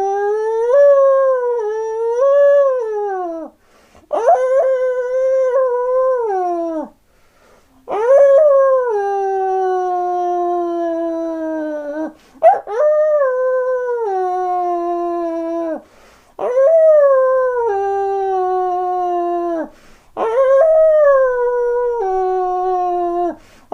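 A man's voice imitating a dog howling at the moon: a run of about six long howls, each three to four seconds, sliding down in pitch at the end, with short pauses for breath between them.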